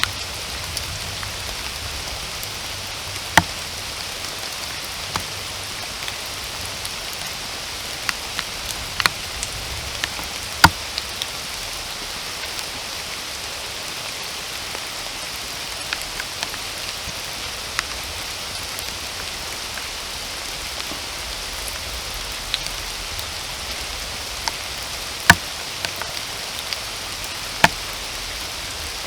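Steady rain falling in a forest, an even hiss. Single heavy drops land close by with sharp taps now and then, the loudest about a third of the way in and again near the end.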